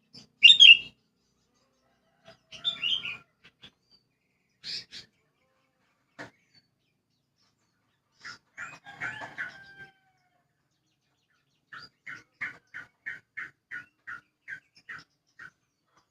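Sooty-headed bulbul (kutilang) calling in short, separate phrases, the loudest right at the start, then a chattering burst and a run of about a dozen quick, evenly spaced notes near the end.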